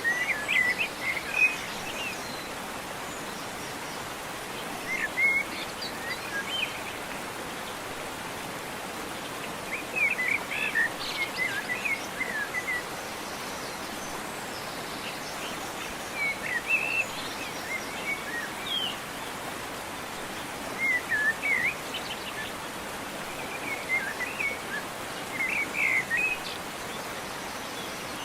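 Steady rush of falling water, with songbirds calling in short bursts of chirps every few seconds.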